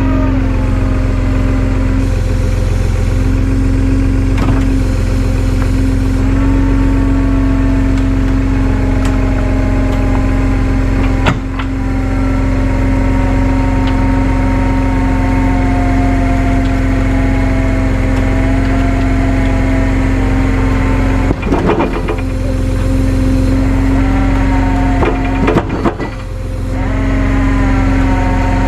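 Tow truck engine running steadily while its winch whines under load, the whine slowly drifting up and down in pitch. Sharp knocks come about 11 seconds in and again a few times between about 21 and 26 seconds in.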